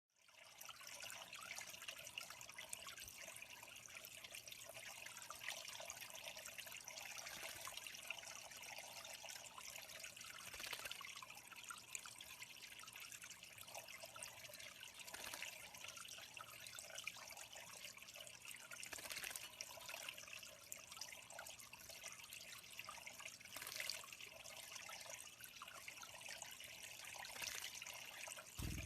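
Water trickling and dripping steadily into a small pond, with a few slightly louder splashes now and then.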